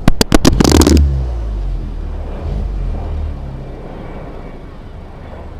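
Seat Leon 1.4 TSI turbocharged four-cylinder engine revved against its rev limiter, with a quick run of sharp cracks in the first second. The revs then drop and the exhaust settles to a low rumble, getting quieter toward idle.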